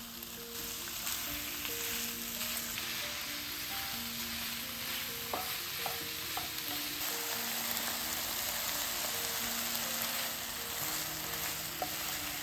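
Food sizzling in a hot frying pan, with a few light clicks near the middle. Soft background music with held notes plays underneath.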